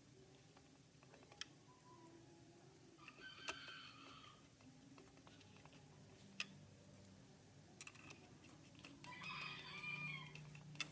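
A rooster crowing twice, faintly, about three seconds in and again near the end, with a few sharp clicks between.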